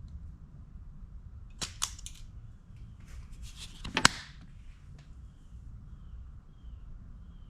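Sharp clicks and rustling from handling wires and small crimp-style butt connectors, with two quick clicks near two seconds in and the loudest click about four seconds in. Faint high chirps repeat in the background later on.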